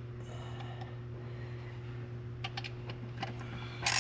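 Steady low hum with a few faint metallic clicks, then a hand ratchet clicking loudly near the end as the intake manifold bolts are tightened.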